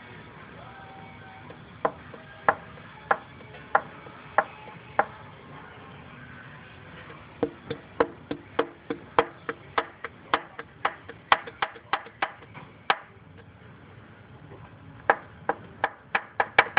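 Engine knocking from a worn cylinder 1 connecting rod: sharp metallic knocks in three runs, about one every half second at first, then about three a second, then faster again near the end.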